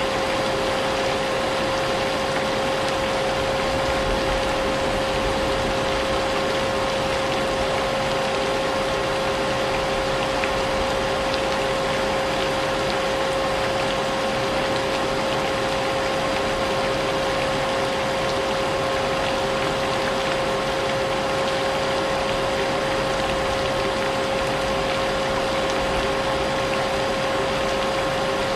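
Vacuum cleaner running steadily with a constant whine, mixed with an even hiss of rain, unchanging throughout.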